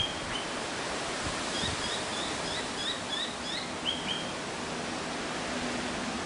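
Outdoor ambience with a steady hiss. A small bird calls over it with a quick run of short chirps, about four a second, then gives one louder, lower call near the four-second mark.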